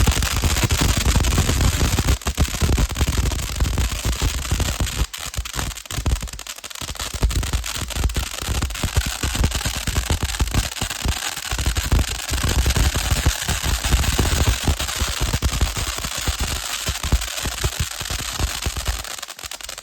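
A 500-gram fountain firework burning with a dense, rapid crackle over a steady rushing hiss. This is its crackling stage, and it eases slightly near the end.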